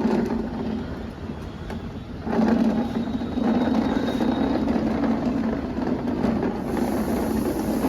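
A vehicle running steadily with a low, even hum, quieter for the first couple of seconds and then louder.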